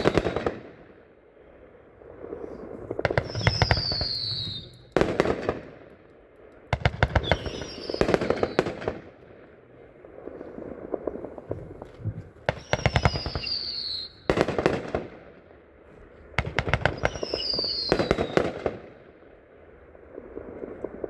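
A 30-shot consumer firework cake, Jammin', firing in volleys. Every few seconds comes a cluster of rapid cracks and bangs, and several volleys open with a short falling whistle.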